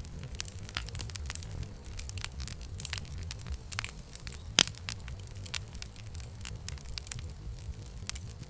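Wood fire crackling: many irregular sharp pops and snaps over a low steady rumble of the flames, with one much louder pop about halfway through.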